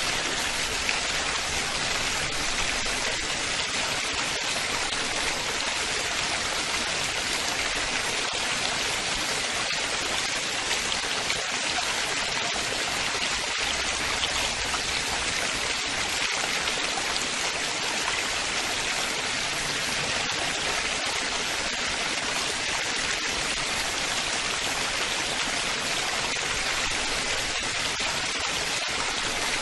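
Running water splashing and babbling steadily, a continuous even rush with no breaks.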